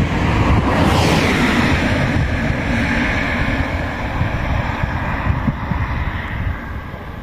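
Wind buffeting the microphone, with a broad rushing hiss that swells about a second in and slowly dies away.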